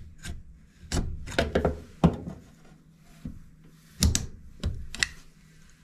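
Plastic timer knob being pushed and pressed onto the timer shaft of a GE top-load washer: an irregular series of knocks and clicks, loudest about two and four seconds in.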